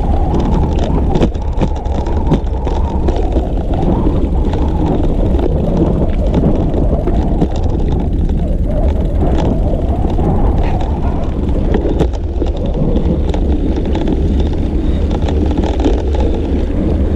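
Wind rushing over the microphone of a camera on a moving bicycle, a steady loud low rumble, mixed with road noise from the ride.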